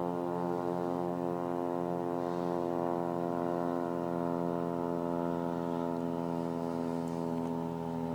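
Twin radial engines of a Douglas Dakota (DC-3/C-47) droning at steady cruise power, heard from inside the aircraft.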